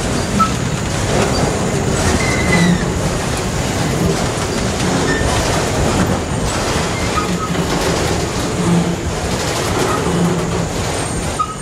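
Freight train of autorack cars rolling past: a steady rumble of steel wheels on rail with clacking over the rail joints and a few brief high wheel squeals.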